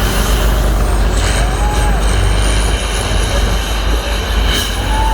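Heavy competition truck's engine running loud and steady, with a short squeal about a second and a half in and another near the end.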